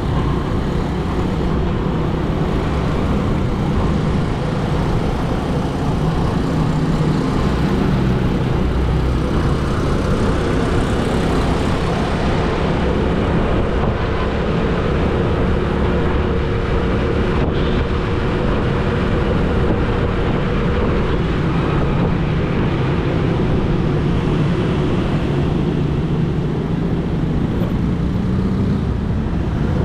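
Steady motor-vehicle engine and road noise, with a low engine hum that holds for several seconds midway.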